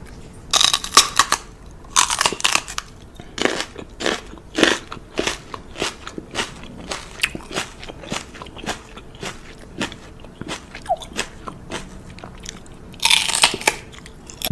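Crunchy chewing: irregular sharp crunches, a few each second, with a louder dense burst of crunching near the end.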